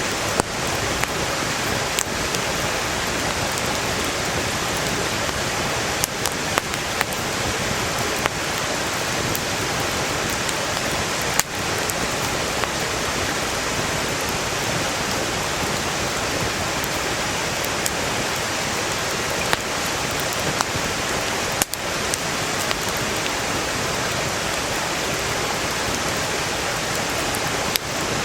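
Steady noise of a valley stream flowing, with firewood in a campfire crackling over it: sharp single pops every few seconds.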